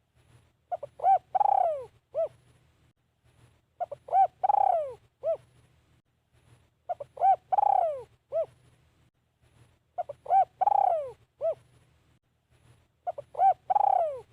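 Spotted dove cooing its song: a phrase of a few short coos, a long drawn-out coo falling in pitch, and one short closing coo, repeated five times about every three seconds.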